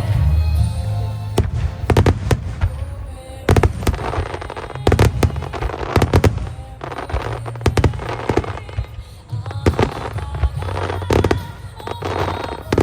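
Starmine fireworks barrage: aerial shells bursting in quick, irregular succession, many sharp bangs a second with a low rumble between them, starting about a second and a half in, over accompanying music.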